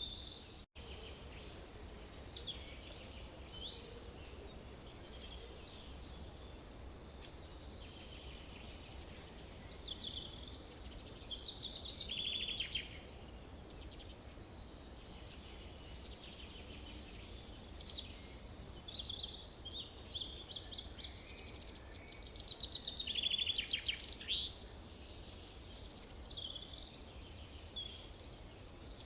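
Forest birdsong: several birds calling and trilling over a low steady rumble, with louder trilling bursts about twelve seconds in and again about twenty-three seconds in. The sound drops out for a split second near the start.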